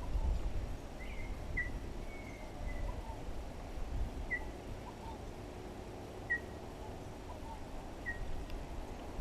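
Short high bird chirps, one every second or two, with one longer even note about two seconds in, over a low rumble.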